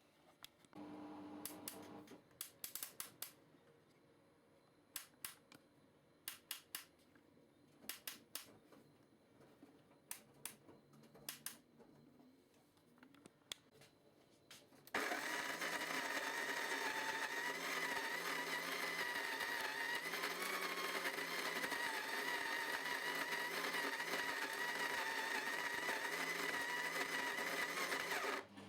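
De'Longhi KG79 burr coffee grinder motor running steadily for about thirteen seconds with a high whine, then stopping suddenly. Before it starts there is a series of sharp clicks and knocks.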